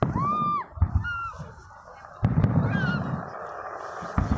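Fireworks shells exploding overhead: sharp bangs about a second in, a little after two seconds and near the end, the middle one followed by a long rumbling echo. In the first second and a half, short high cries rise and fall in pitch over the bangs.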